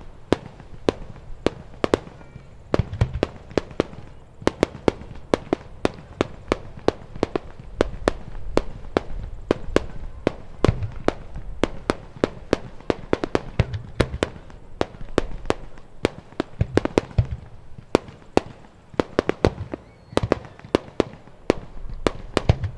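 Aerial fireworks going off in a rapid barrage: a dense string of sharp cracks, several a second, with deeper booms every few seconds.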